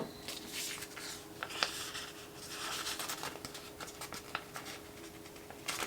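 Scratching and rubbing on a paper planner page, with a sharp click near the start and light ticks of paper handling.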